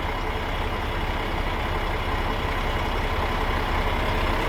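Truck engine running steadily with a low rumble, growing slightly louder near the end.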